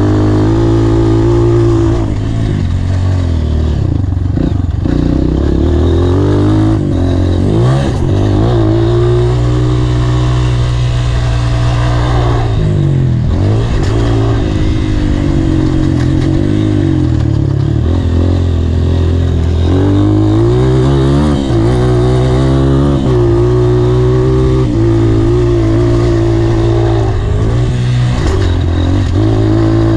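Honda CRF230 dirt bike's air-cooled single-cylinder four-stroke engine running hard under load, its pitch repeatedly climbing and then dropping sharply as the throttle is rolled off and opened again, several times.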